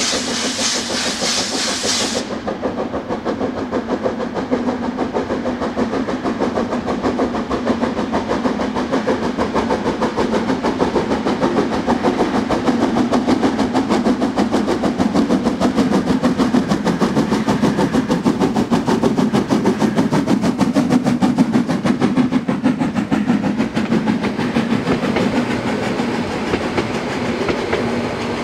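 Narrow-gauge steam locomotive of the Harz railways working hard uphill, its exhaust beating out in a fast, even rhythm. A loud steam hiss cuts off suddenly about two seconds in, and the exhaust beats grow a little louder toward the middle.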